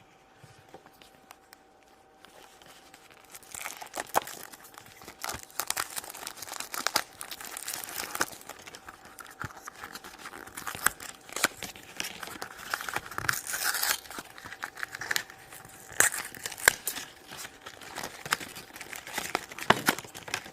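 Plastic toy packaging being torn open and crinkled by hand. After a quiet start of about three seconds, there is dense crackling and rustling with many sharp clicks.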